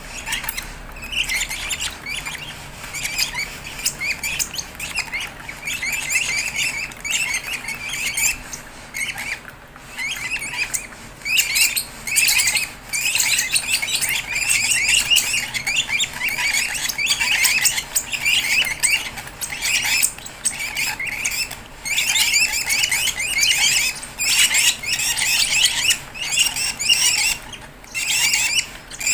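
Fischer's lovebird chicks giving rapid, rasping begging chirps during hand-feeding, almost without a break and with only short pauses.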